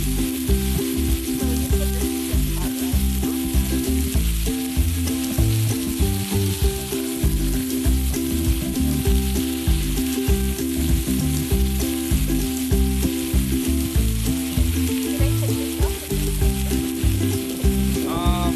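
Thin-sliced chicken breasts sizzling on the flat steel top of a Qomotop three-burner propane griddle, a steady frying hiss. A steady rhythmic low beat runs underneath.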